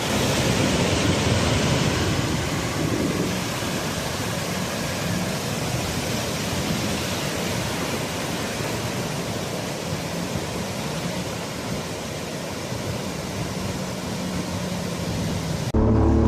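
Steady rushing noise of wind and water spray while riding a jet ski, with a faint engine hum underneath. Near the end the engine comes in much louder and clearer.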